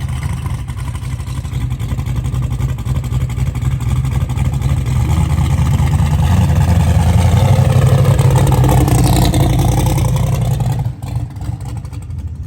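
Drag race car engines running hard down the strip. The sound builds to its loudest about eight seconds in, the pitch sweeps around nine seconds, and it drops off abruptly about eleven seconds in.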